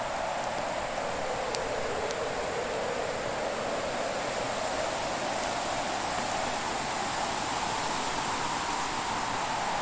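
Steady rushing hiss whose pitch slowly sinks and then rises again, with a few light crackles of a wood fire in the first few seconds.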